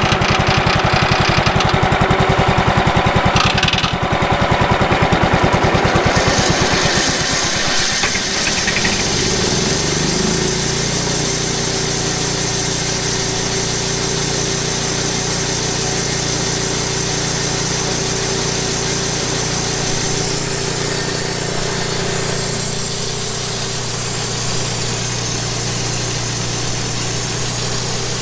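Gas engine of a late-1990s Wood-Mizer LT15 band sawmill running. Its rapid firing pulses give way, between about six and ten seconds in, to a higher, steady speed with a hiss on top as the band blade spins.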